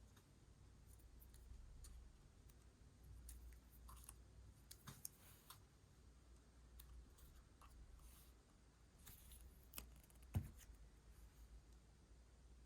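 Faint handling of paper and stationery: scattered small clicks and light paper rustles, with one sharper tap about ten seconds in.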